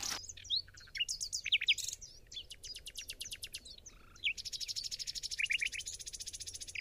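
Several songbirds calling: short down-slurred chirps, with a fast, even trill about two seconds in and a longer one from about four seconds in.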